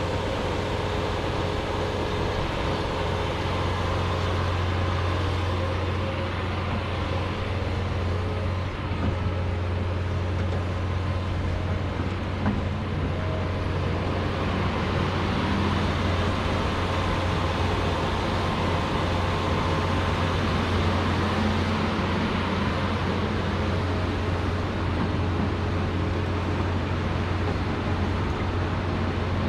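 John Deere 210G excavator's diesel engine running steadily with a low drone while working, with a couple of faint knocks near the middle.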